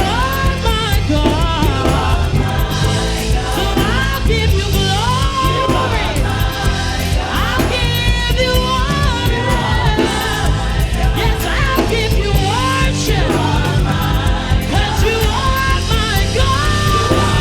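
Worship band music with singing voices over a steady beat.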